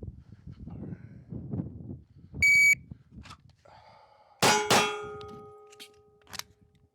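A shot timer beeps once, about two and a half seconds in. Two seconds later a pistol fires two quick shots, each followed by a metallic ring that lingers.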